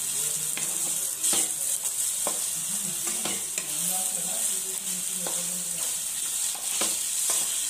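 Marinated chicken pieces sizzling in hot oil in a non-stick wok, stirred with a wooden spatula that scrapes and knocks against the pan about once a second.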